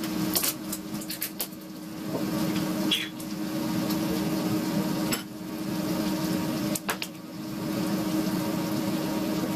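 A steady hum from a kitchen appliance, with scattered sharp clicks and knocks of kitchen items being handled, including a cluster in the first second and single ones around the middle.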